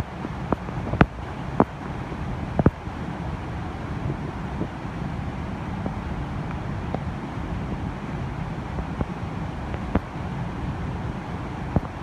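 Waterfall in heavy flow after rain: a steady rush of falling water, with scattered sharp ticks.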